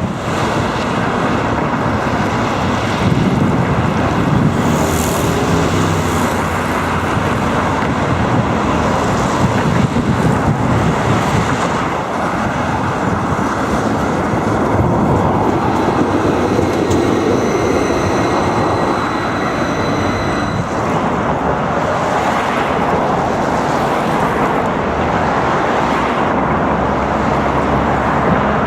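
Tram train of two coupled 71-301 cars running along the track: a continuous rumble of wheels on rails, with thin steady high tones over it that stop about 21 seconds in.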